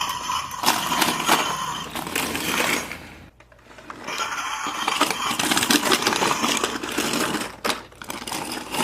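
Plastic toy truck's hook and claw mechanism clicking and rattling quickly as it is worked, in two stretches with a short pause a little over three seconds in.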